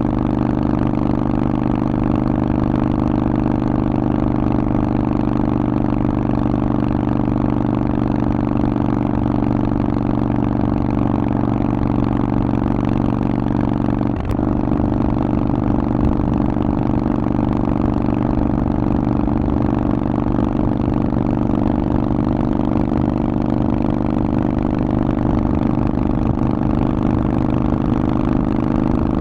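Harley-Davidson Forty-Eight's 1200 cc V-twin running through a Vance & Hines aftermarket exhaust, holding a steady engine speed, with a brief dip in pitch about halfway through.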